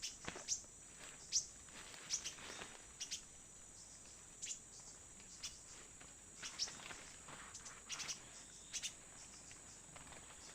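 Forest insects keeping up a steady high drone, with a bird giving short, sharp chirps every second or two.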